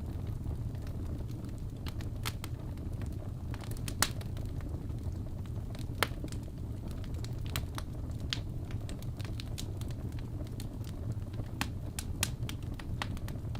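Fireplace fire crackling with scattered sharp pops over a steady low rumble. Two pops, about four and six seconds in, are louder than the rest.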